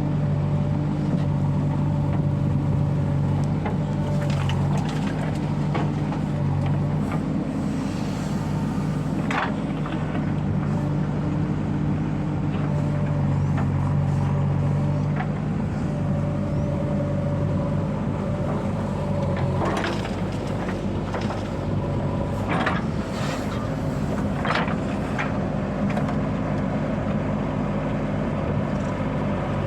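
Heavy diesel machinery running steadily at working revs, its pitch shifting a little about halfway through, with scattered knocks and clanks during earth-moving work.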